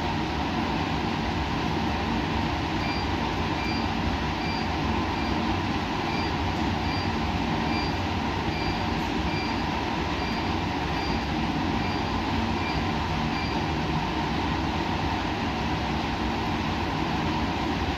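Steady machine noise of laboratory equipment, an even rumble and hiss with a low hum, unchanging throughout. A faint high beep repeats about two or three times a second from about three seconds in until about thirteen seconds in.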